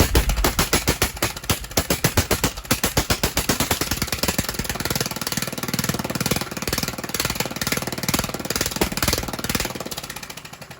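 Kohler 20 hp small engine running with no exhaust pipe or muffler fitted, each firing stroke a sharp crack straight out of the open exhaust port in a rapid, loud train. The level falls away near the end.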